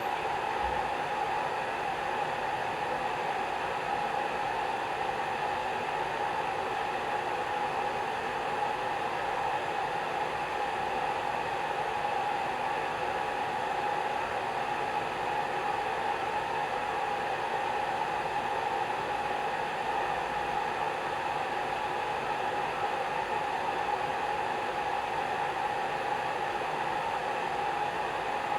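Hair dryer running steadily: a constant whooshing hiss with a steady hum-like tone in the middle.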